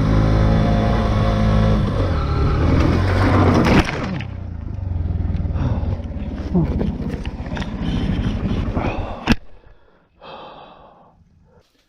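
Honda motorcycle's engine running steadily, then a sudden jolt about four seconds in and rough, irregular noise as the bike goes down in a fall on gravel. A sharp knock follows about nine seconds in, then a short gasp.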